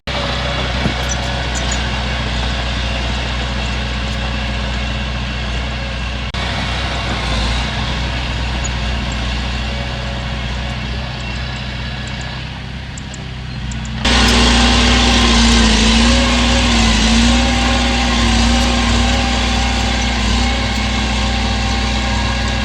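Heavy diesel earthmoving machinery running steadily, its engine hum continuous; the sound changes abruptly about six seconds in and jumps louder about fourteen seconds in.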